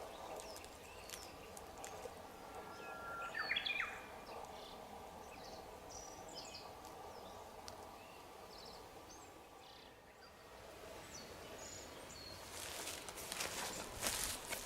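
Quiet woodland ambience with birds calling: a short stepped call about three seconds in and scattered brief high chirps. Footsteps start near the end.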